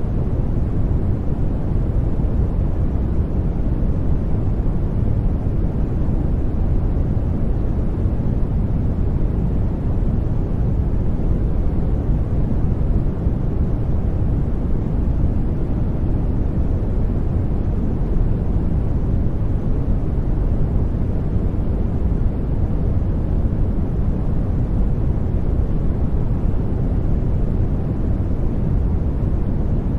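Steady, unchanging sleep noise of the 'white noise' kind, deep and rumbling, with most of its energy in the low end and little hiss.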